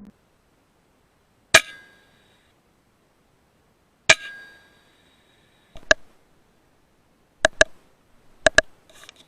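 FX Impact M3 .22 PCP air rifle firing two shots a few seconds apart, each a sharp crack with a brief metallic ring. Three pairs of quick mechanical clicks follow.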